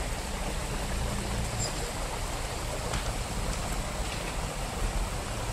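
Off-road trial truck engine running steadily at a distance, a low rumble under a steady hiss.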